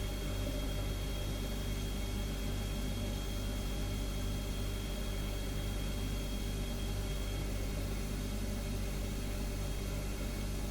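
Refrigerator humming steadily with a deep compressor hum. A faint high whine over it fades out about two-thirds of the way through.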